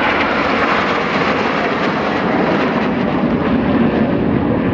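Jet noise from a KAI T-50B aerobatic jet: a loud, steady rushing that deepens in pitch toward the end.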